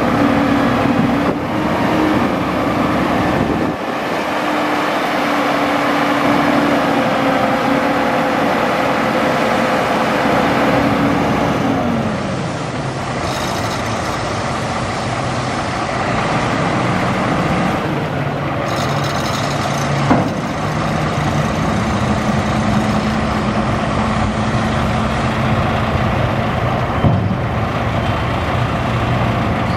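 1998 Ford Louisville dump truck's diesel engine running steadily, its revs dropping about twelve seconds in and settling at a lower speed.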